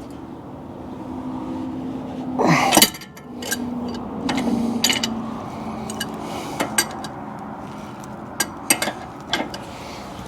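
Hand tools working on a Jeep's steering drag link: scattered metal clicks, clinks and knocks of wrenches on the fasteners, with a louder sound falling in pitch about two and a half seconds in.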